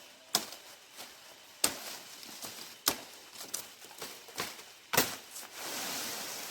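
A few sharp knocks at uneven gaps of about a second or more, with smaller taps between them, and a rustling noise near the end.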